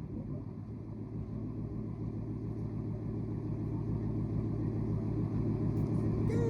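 Ford Coyote 5.0 V8 in an F-150 running at a steady low rumble through a straight-through dual exhaust (muffler and resonator deleted, H and X pipe). The rumble slowly grows a little louder.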